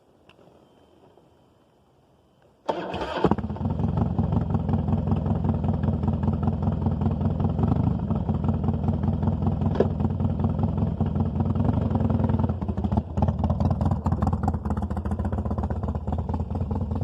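Harley-Davidson Dyna Wide Glide V-twin being started cold: after a few seconds of quiet, the starter cranks briefly and the engine catches, then settles into a steady, pulsing idle.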